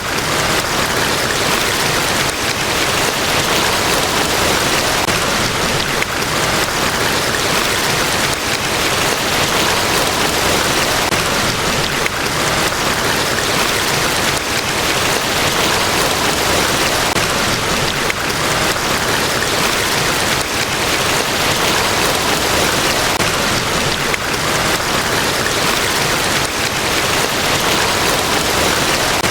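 Large waterfall: a loud, steady, unbroken rush of falling water.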